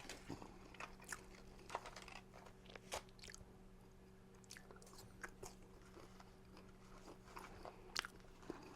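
Faint chewing of fast-food french fries, with scattered small clicks over a steady low hum.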